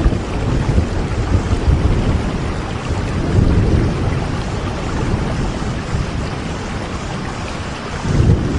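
Steady rainfall, a continuous hiss of drops, under a low rumble that swells and fades a few times.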